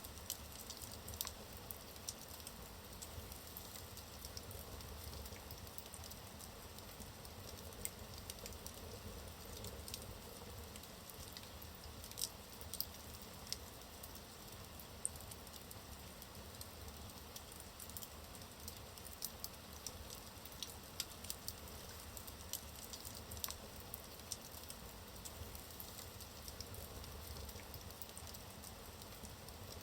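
Wood logs burning in a fireplace: faint, irregular crackles and sharp pops over a low, steady hiss of the fire.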